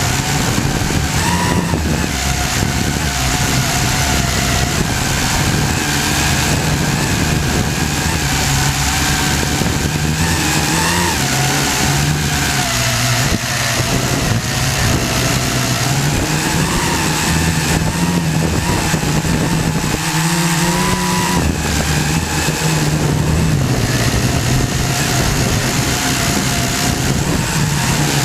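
Syma X8C quadcopter's four electric motors and propellers whirring in flight, the pitch of the whine shifting up and down every second or two as the throttle changes.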